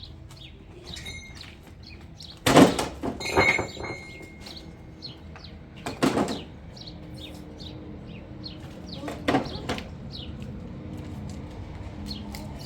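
Three loud scraping clatters, about two and a half, six and nine seconds in, over small birds chirping.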